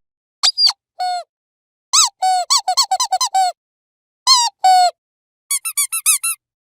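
Dog squeaky toy squeezed in bursts of short squeaks: one squeak, then a falling one, a quick run of about eight, two longer squeaks, and near the end a fast run of higher-pitched squeaks, with dead silence between the groups.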